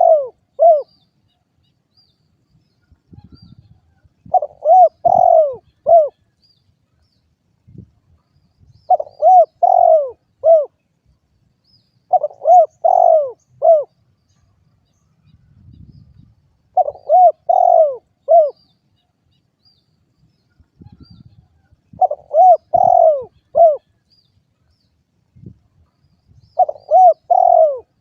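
Spotted dove (derkuku) cooing: about six phrases, each of four or five short coos, repeated roughly every four seconds.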